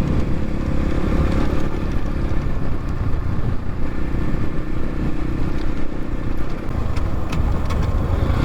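X-Pro Templar X 250 dirt bike's engine running steadily under way while riding, with a few short clicks near the end.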